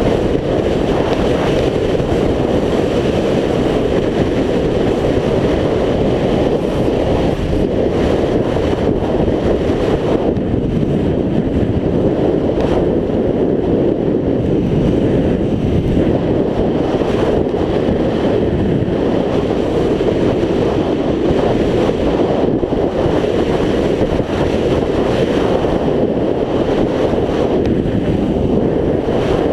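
Loud, steady wind buffeting on a GoPro microphone while riding a scooter, drowning out the engine.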